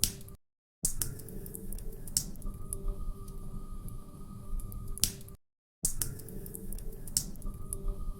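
Wood fire crackling, with irregular sharp pops and snaps over a low steady rumble. The sound cuts out briefly twice, about half a second in and again about five seconds in.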